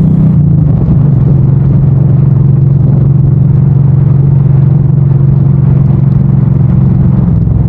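Suzuki M109R's V-twin engine running steadily while riding, its note dropping a little just after the start and picking up again near the end.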